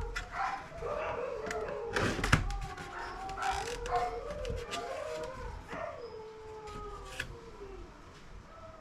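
A dog howling in long wavering notes that rise and fall, over sharp clicks and taps, the loudest about two seconds in.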